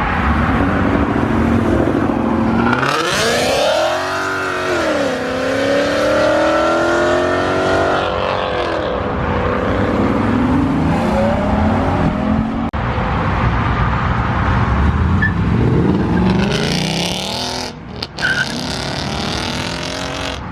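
Muscle cars' engines revving hard and accelerating away one after another, the pitch climbing and dropping with each rev and pass.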